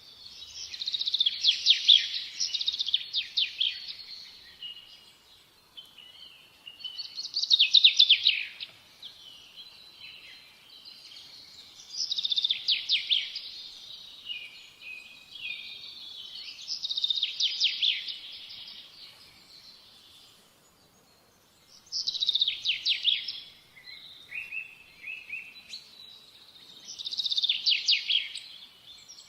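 A songbird singing: six loud phrases of rapid trilled notes, about one every five seconds, with softer chirps between them.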